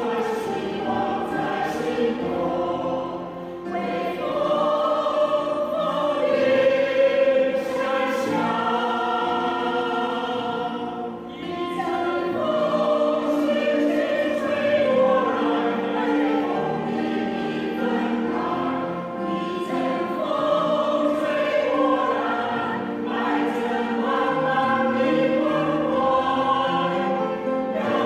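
A choir singing sustained, slow chords, with a brief breath between phrases about eleven seconds in.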